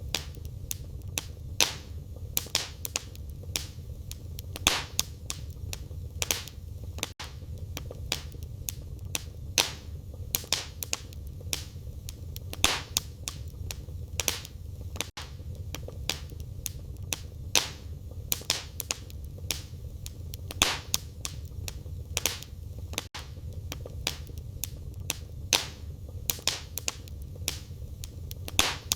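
Wood fire burning in a fireplace, crackling with irregular sharp pops and snaps, several a second, over a low steady rumble of the flames.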